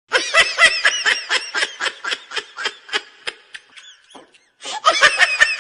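High-pitched laughter in quick rhythmic pulses, about four a second, tailing off after about three and a half seconds, then a second burst of laughter near the end.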